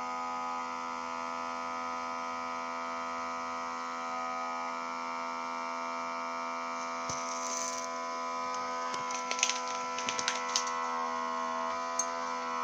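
Vacuum Fresh vacuum sealer's small electric pump running with a steady hum as it draws the air out of a bag before sealing. A few light clicks come near the end.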